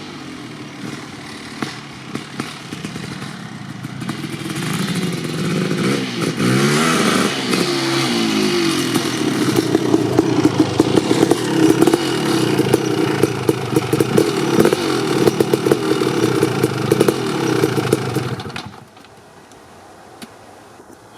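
Kawasaki KX500's 500cc single-cylinder two-stroke engine through an FMF Gnarly expansion pipe, running low and then revved, its pitch rising and falling a few times, before being held at a higher steady speed with sharp pops and crackles. The engine cuts off suddenly about 18 seconds in.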